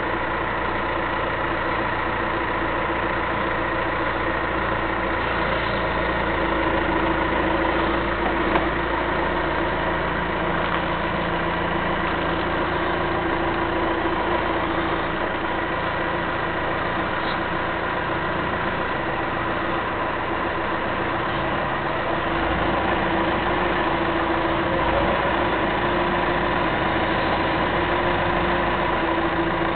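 John Deere backhoe's diesel engine idling steadily.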